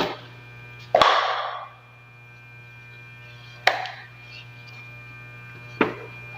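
Three sharp knocks from handling vacuum cleaner parts during reassembly: the first, about a second in, is the loudest, with a short clattering tail, and the others come near four and six seconds. A steady low hum runs underneath.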